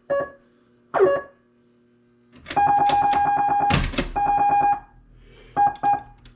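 Stern Trident pinball machine's SB-100 sound board playing its basic early solid-state game tones: two short beeps, then a held tone for about two seconds with a loud clack in the middle, then quick repeated beeps near the end.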